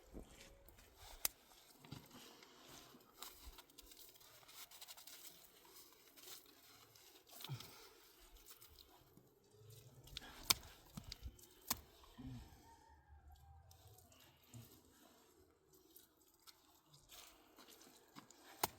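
Faint scattered clicks and knocks with light rustling, a few sharper knocks standing out.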